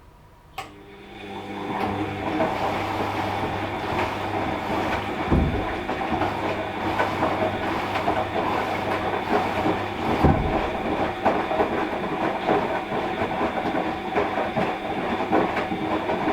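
Washing machine drum turning a wash load. A click comes about half a second in. Then the motor and tumbling load rise over about a second into a steady rattle with a low hum, with two heavy thumps, one about five seconds in and one about ten.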